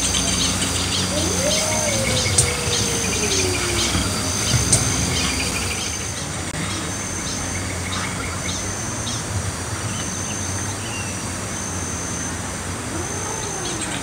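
Birds chirping: short high notes repeated about once a second over a steady low hum.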